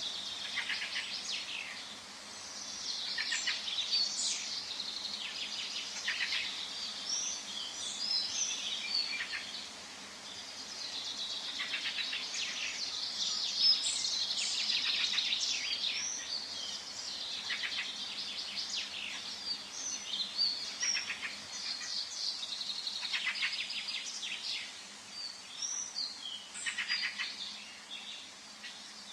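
Forest birdsong: several birds singing at once, with overlapping chirps, rapid trills and short whistles that keep going with no break.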